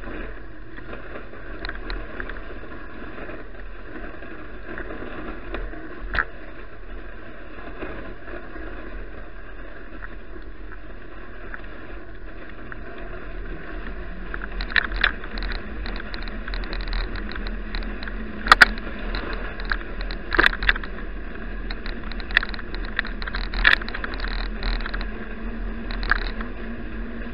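Bicycle ride on snowy roads heard through an action camera's microphone: steady road and wind noise, with a run of sharp rattling knocks from about halfway in as the bike goes over bumps.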